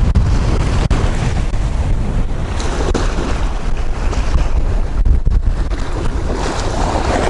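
Strong gusting sea wind hitting the microphone: a heavy, rumbling buffet with a rushing hiss over it, surging and easing, with the sound briefly cutting out a couple of times.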